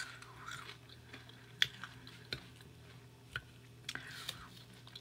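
Close-miked chewing of a mouthful of carne asada fries with shrimp, quiet, with a few sharp clicks spread through it.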